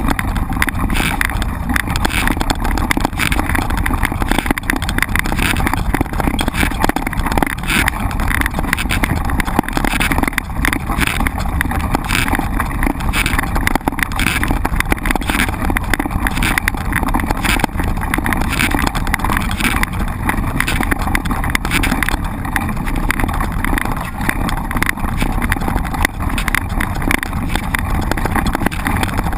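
Mountain bike being ridden over rough ground, heard from a bike- or rider-mounted camera: steady wind rush on the microphone with frequent knocks and rattles from the bumps.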